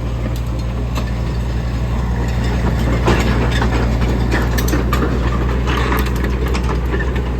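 Diesel engine of a compact Sany excavator running steadily, with scattered metallic clicks and clanks over it.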